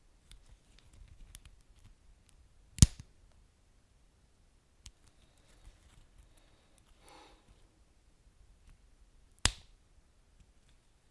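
Wood fire crackling: sparse small ticks, with two loud sharp pops about three seconds in and again near the end, and a brief soft hiss in between.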